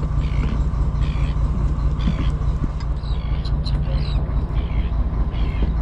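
Fishing boat's engine running steadily with a low drone, with short higher-pitched sounds repeating about once a second over it.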